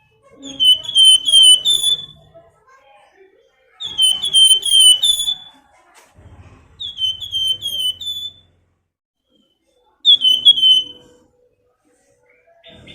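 A flamboyan songbird singing in 'nyiul' whistled phrases: four bursts of four or five quick, clear notes, each note hooking down in pitch, a few seconds apart, plus a short fragment near the end.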